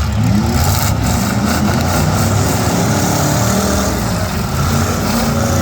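Several demolition derby cars' V8 engines running together, loud, revving up and down.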